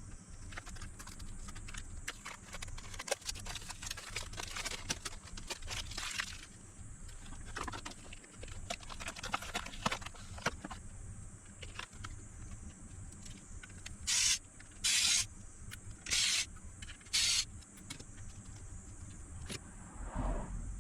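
Scattered clicks and scrapes of parts and tools being handled, then four short hissing bursts, each about half a second long, a little over a second apart.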